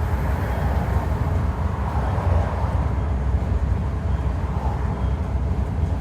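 Scania N230UD double-decker bus with its 9.3-litre Scania DC9 diesel running on the move: a steady low rumble with a faint howl wavering near the middle, a strange noise that the uploader thinks sounds like a dodgy bearing or worn-out tyres.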